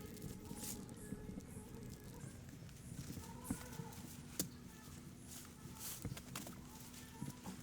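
Faint, scattered knocks and taps, a few seconds apart, over a low steady background.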